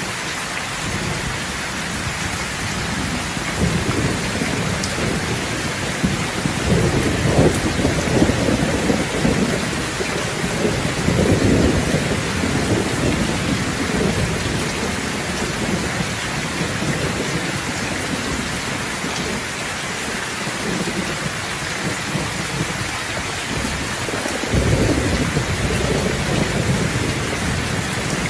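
Steady heavy rain falling, with rolls of thunder rumbling low under it: a long roll building a few seconds in and fading, and another near the end.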